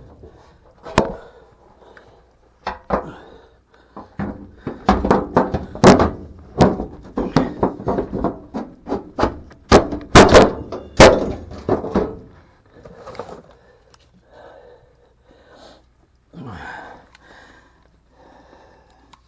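A run of knocks, thuds and clanks from the dryer's metal panel being handled and fitted back into place. The knocks come thickest between about four and twelve seconds in, then fade to a few faint bumps.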